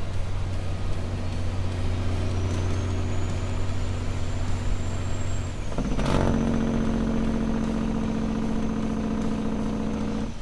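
Peterbilt 379 diesel engine running under way, a steady low drone with a thin whine rising over several seconds. About six seconds in comes a short sharp burst of noise, after which the engine note changes.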